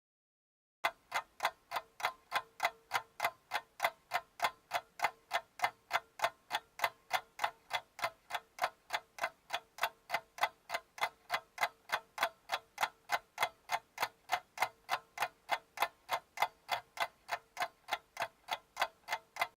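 Clock ticking sound effect: an even run of sharp ticks, about three a second, over a faint steady hum. It starts about a second in and cuts off abruptly, like a practice countdown timer.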